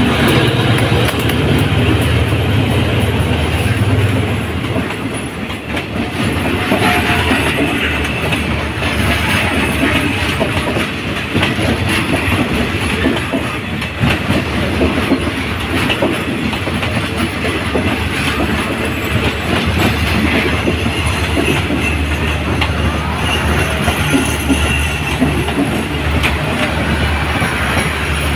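A GEA-class diesel-electric locomotive's engine hums as it passes in the first few seconds. Then the passenger coaches of an express train roll slowly past close by as it pulls into its terminus: steady wheel and rail noise with the clickety-clack of wheels over the rail joints.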